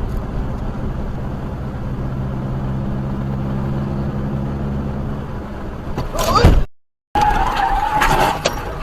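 Dash-cam recording of a car driving, with steady engine and road noise. About six seconds in, a loud sudden noise breaks in and cuts off abruptly. After a brief silence, loud vehicle noise returns with a steady high tone over it.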